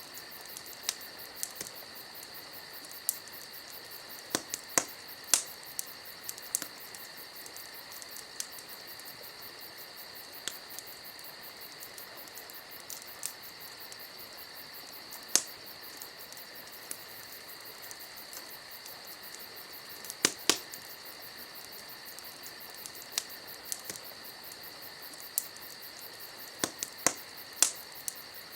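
Campfire crackling, with scattered sharp pops, over a steady high chirring of insects such as crickets.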